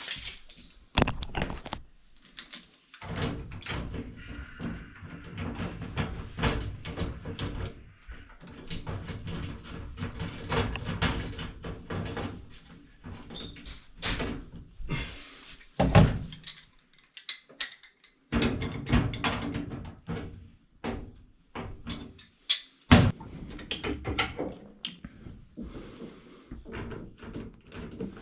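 Repeated knocks, clunks and rattles from work on a front-load washing machine, with two loud thumps, about sixteen and twenty-three seconds in, over a low steady hum in parts.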